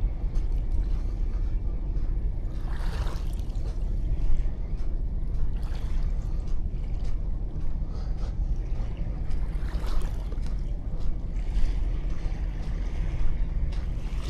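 Sea waves washing onto a sandy beach, with a steady low wind rumble on the microphone. A wave swells and washes in about three seconds in and another around ten seconds.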